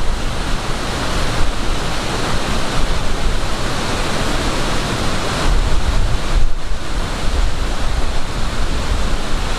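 Waterfall roaring steadily, with wind buffeting the microphone underneath.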